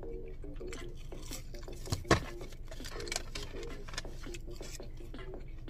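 A man chewing a spicy fried-chicken sandwich: scattered wet mouth clicks and smacks, two sharper clicks about two seconds in, over a faint low murmur.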